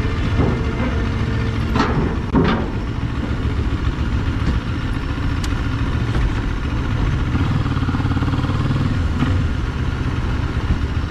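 Moto Morini X-Cape 650's parallel-twin engine running at low speed while riding off slowly, with two sharp clanks about two seconds in.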